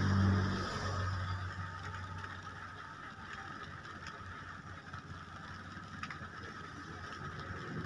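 Steady rain on a car, heard from inside the cabin, with a few faint drop ticks. A passing vehicle's engine hum is loudest in the first second and then fades.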